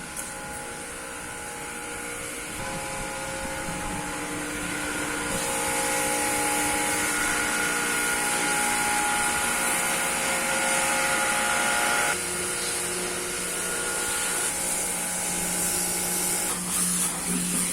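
A machine's motor running steadily, a whine of several steady tones over a high hiss. It builds up over the first few seconds, and its tone changes abruptly about twelve seconds in.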